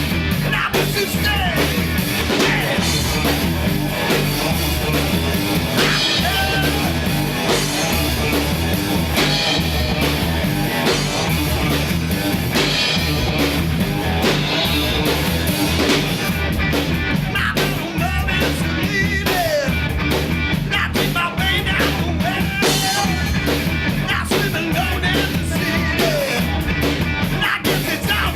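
A three-piece rock band playing a song with guitar and a steady beat, with singing at times.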